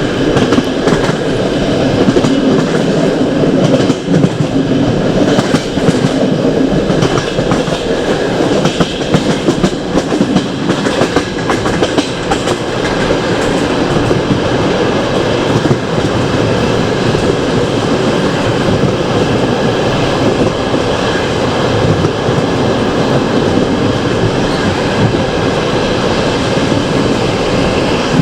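Passenger train carriage running on the line, its wheels rumbling steadily on the rails with repeated clicks and clacks over the rail joints.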